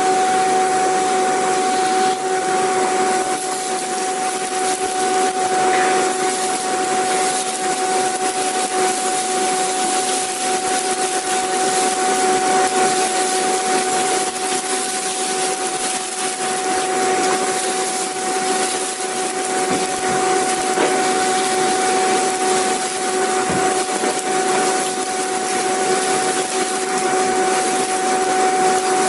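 Vacuum cleaner running continuously: a steady high motor whine over a constant rush of air, with no change in pitch or speed.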